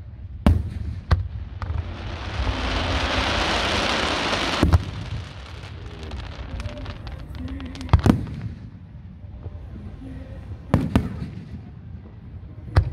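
Aerial fireworks shells bursting in a series of sharp bangs, about seven of them, two close together near the end. A loud steady hiss builds from about two seconds in and ends with a bang near five seconds.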